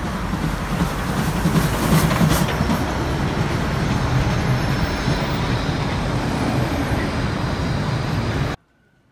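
A train running, a loud steady rumble with a few sharp clicks about two seconds in; it cuts off suddenly near the end.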